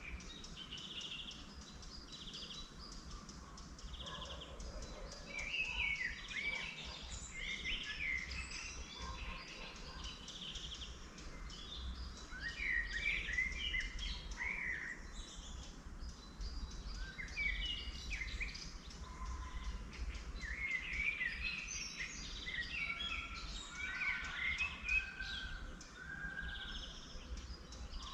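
Several songbirds singing and chirping in overlapping phrases, with short repeated trills and whistled notes, over a steady low background rumble.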